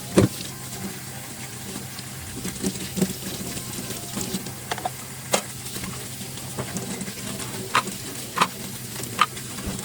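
Dishes and kitchen utensils clinking and knocking during washing up, with a few sharp, briefly ringing clinks near the end, over a steady low hum.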